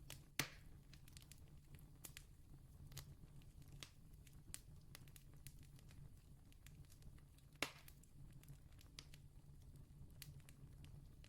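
Faint crackling of a wood campfire: scattered small clicks and snaps, with two louder sharp pops, one just after the start and one about three-quarters of the way through, over a low steady hum.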